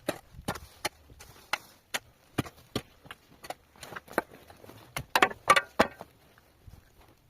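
A hand tool striking hard material again and again, in irregular blows about two a second, with the loudest run of blows about five seconds in.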